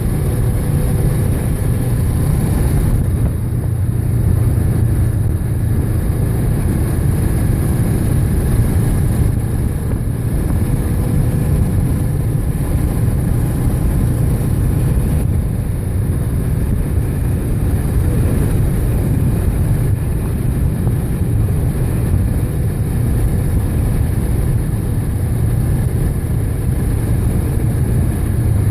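Steady roar of wind and engine on a moving motorbike, the rush of air on the microphone with a low drone underneath, unbroken throughout.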